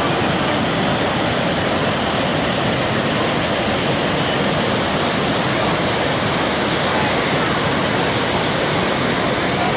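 Waterfall close by: a loud, steady, unbroken rush of falling water.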